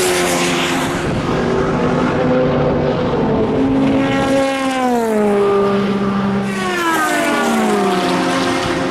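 Endurance race cars running on the circuit at speed, several engines heard at once. Twice, about halfway through and again near the end, a car goes past with its engine note dropping in pitch as it passes.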